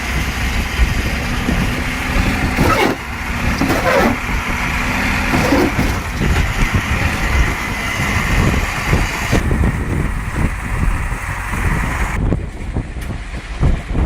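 Heavy vehicle engines running and working, a dense rumble with a few rising and falling pitch sweeps a few seconds in. The sound changes abruptly twice in the second half.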